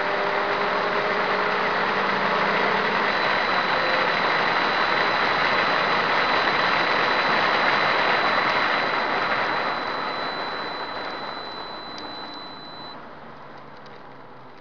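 Subaru Impreza S204's turbocharged flat-four under hard acceleration, heard from inside the car, with heavy wind and road noise and the engine note climbing at first. About nine seconds in, the noise falls away steadily as the car lifts off and slows for a corner.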